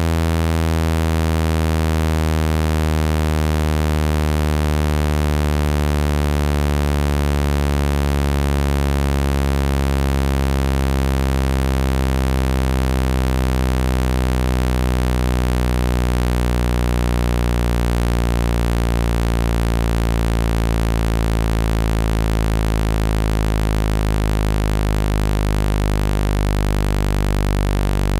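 Synthesized low buzzing tone with many overtones, played steadily and slowly falling in pitch. It is a speaker-cleaning tone meant to vibrate water out of a phone speaker.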